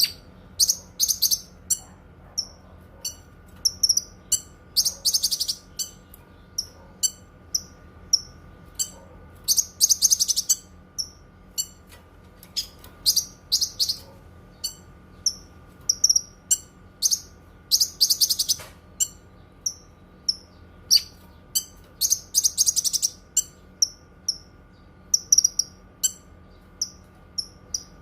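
A cucak kinoi songbird singing: a run of short, sharp high chirps, about two a second, broken every few seconds by louder rapid trills. A faint steady hum lies underneath.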